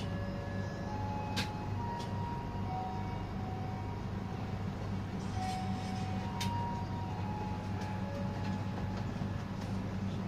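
Dharmawangsa Express passenger train running: a steady low hum and rumble, with sharp clicks every second or two and several short, thin, high squeaks.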